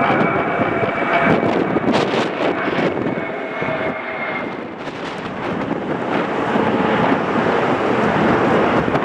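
Jet airliner engines running: a steady rushing noise with a faint high whine that fades about halfway through.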